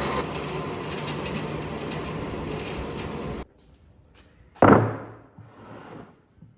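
A power tool running steadily, which cuts off abruptly about three and a half seconds in; about a second later comes a single sharp knock.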